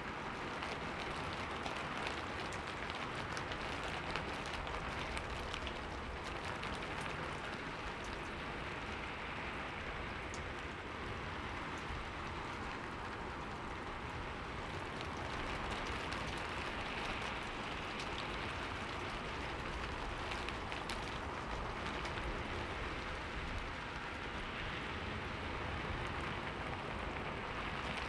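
Steady rain falling on a window, an even hiss with scattered light drop ticks.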